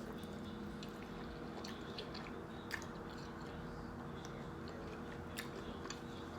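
A person chewing a mouthful of grinder salad sandwich, with soft wet mouth sounds and a few faint crisp clicks, over a steady low background hum.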